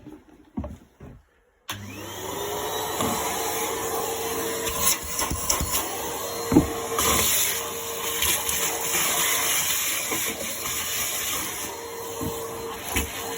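A few knocks, then a Numatic Henry vacuum cleaner is switched on about two seconds in. Its motor rises to speed with a climbing whine, then runs steadily while vacuuming with the crevice tool, with scattered clicks and knocks.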